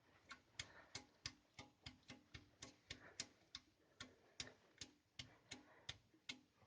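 VAZ 2109 engine running cold with a sharp, regular knock, about three knocks a second. This is a cold-engine knock that goes away once the engine warms up; it was traced to the piston group (pistons, rings and piston pins), with overheating the suspected cause.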